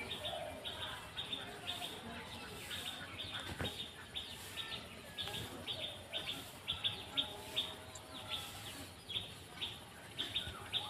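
Small bird chirping in a fast run of short, high notes, about three a second, with a brief knock about three and a half seconds in.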